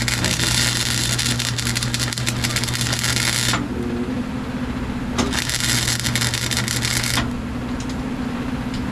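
Electric welder arc crackling in two runs: one already going that cuts off about three and a half seconds in, and a second of about two seconds starting near the middle, each over a steady electrical hum.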